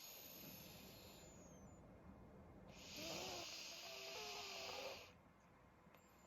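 Elderly black pug snoring in its sleep through a blocked nose: a hissing breath, then from about three seconds in a longer, louder snore with a wavering whistle that stops near the five-second mark.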